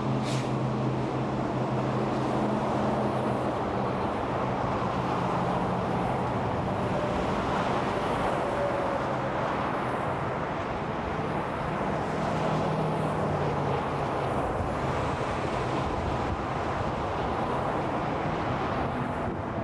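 Steady freeway traffic: a continuous rush of tyres and engines from passing cars. A low engine drone from a heavier vehicle rises above it during the first few seconds and again about two-thirds of the way in.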